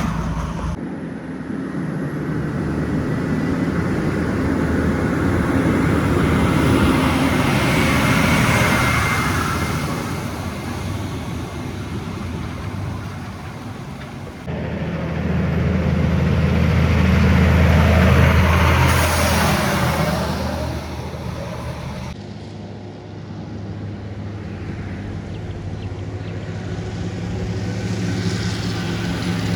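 Heavy diesel trucks passing on a highway one after another, each swelling with engine and tyre noise and fading away; three pass-bys, with abrupt jumps in the sound between them.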